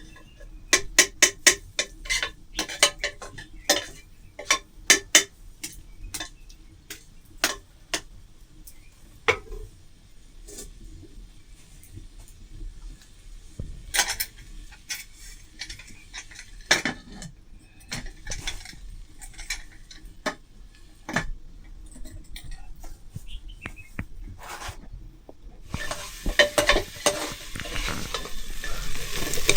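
A metal spoon or ladle clinking and scraping in a cooking pot, in quick taps at first and then more sparsely. Near the end a sizzle of food frying in hot oil swells up.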